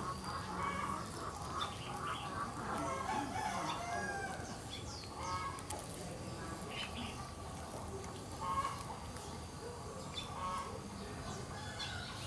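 Birds calling in the background: repeated short clucking calls and a few quick, high chirps.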